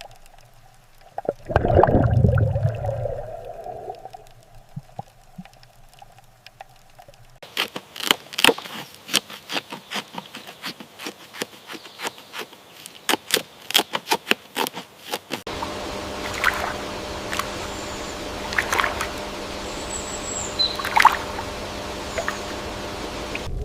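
A beaver splashing into water about a second and a half in. Then a long run of quick, sharp drip-like clicks of trickling water, and then a steady hum with a few short high chirps.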